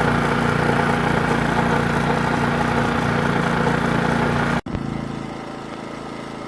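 WEN 56235i inverter generator's small four-stroke engine running steadily. A sudden cut about two-thirds of the way in gives way to a quieter, softer engine hum.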